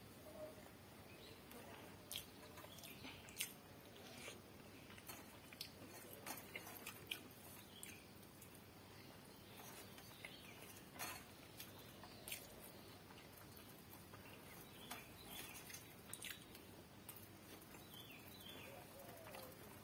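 Faint eating sounds: soft chewing and mouth smacks with scattered light clicks, as rice mixed with soybean curry is eaten by hand from a steel plate.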